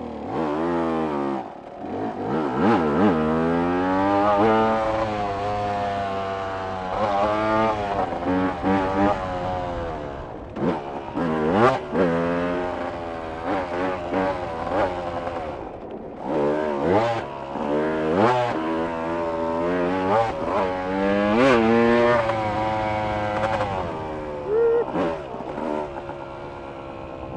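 A vehicle engine being driven hard. Its pitch climbs steeply and drops back again and again as it accelerates and shifts gears, with a few sharp knocks along the way.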